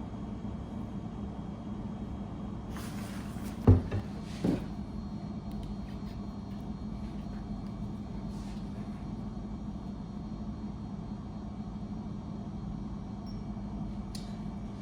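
Steady low machine hum, with a sharp knock about four seconds in and a lighter knock just after it, typical of something being set down or a cupboard door shutting.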